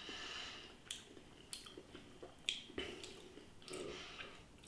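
A man chewing a mouthful of pie, faint, with a few short wet mouth clicks.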